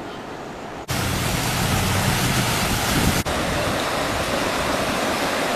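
Steady rushing noise of fast-moving water, cutting in abruptly about a second in, with a brief break after about three seconds.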